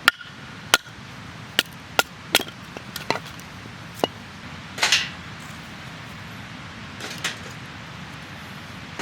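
Firewood being chopped or split for a campfire: a series of sharp wooden knocks at irregular spacing, about seven in the first four seconds. A longer crack follows about five seconds in and a fainter one near seven seconds.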